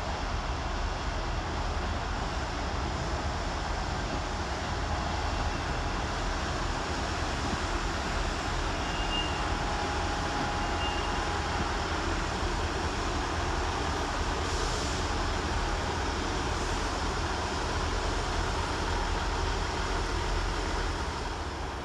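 Class 158 diesel multiple unit pulling out, its underfloor diesel engines running as a steady rumble.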